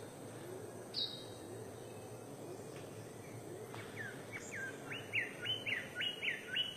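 A bird calls once, short and high, about a second in. From about four seconds in it calls a rapid run of repeated notes, about three a second, each jumping up and sliding back down and growing louder, over steady background hiss.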